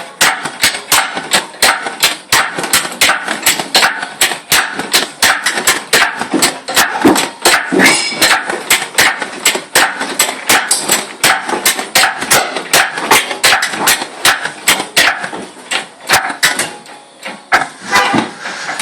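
Rapid, irregular metallic knocks and clanks, about two or three a second, from work on the engine in a garage.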